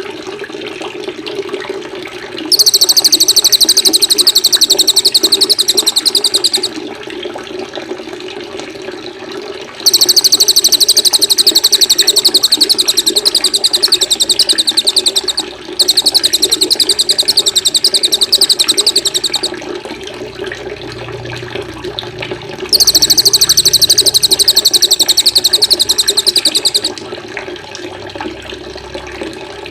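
Small songbird singing very fast, high, even trills in bursts of about four to six seconds, four times with short pauses, over a steady rush of running water.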